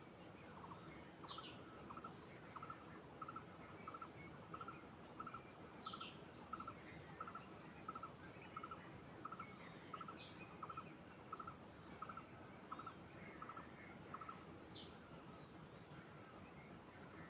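Birds calling in a quiet natural ambience. One repeats a short note about twice a second and stops near the end, while another gives a high whistle that falls in pitch every four to five seconds.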